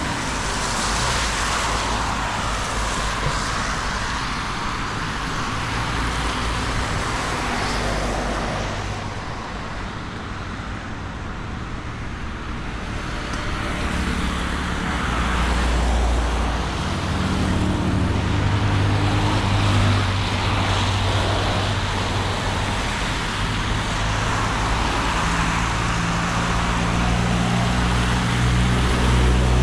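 Street traffic on a rain-wet road: a steady hiss of tyres, with the low running of vehicle engines passing close by from about halfway through and again near the end.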